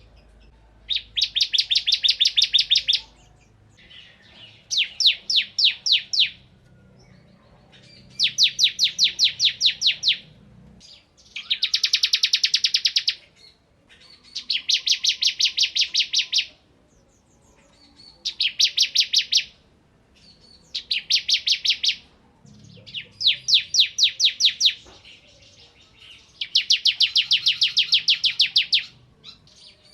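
Bar-winged prinia (ciblek) singing energetically. Its song comes in rapid machine-gun trains of sharp, high, evenly repeated notes, each burst about two seconds long, repeated with short pauses throughout.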